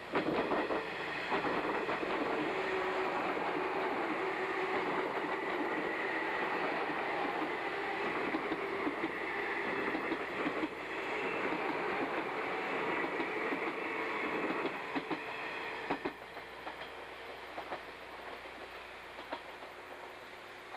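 A JNR 381 series electric express train passing at speed close by: a loud rush of wheels on rail that starts abruptly, with repeated sharp clacks as the wheels cross rail joints. The sound drops away about fifteen seconds in, leaving only faint scattered clicks.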